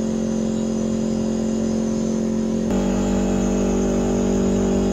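Off-road vehicle's engine and driveline droning steadily from inside the cab. About three seconds in, the note steps suddenly to a louder, slightly different pitch.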